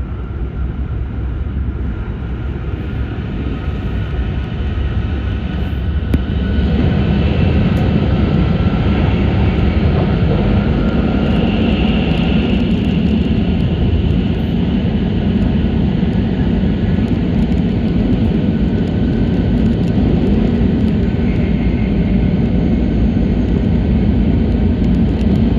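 Running noise of a Tohoku Shinkansen train as heard inside the passenger car: a steady low rumble with a faint whine above it. It grows louder about six seconds in and stays loud.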